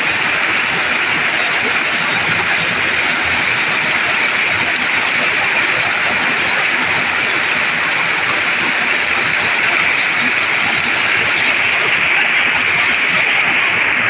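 Heavy wet-season downpour: a loud, steady rush of rain hitting plants and ground, with water pouring off a roof edge.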